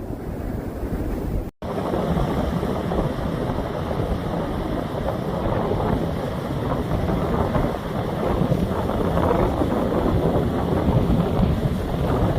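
Ocean surf washing in steadily, with wind buffeting the microphone. The sound drops out abruptly for a moment about one and a half seconds in, then resumes.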